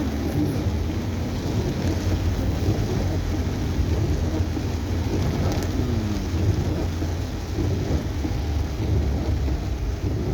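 Rain on a moving car heard from inside the cabin: a steady noisy patter over a constant low rumble of the engine and tyres on the road.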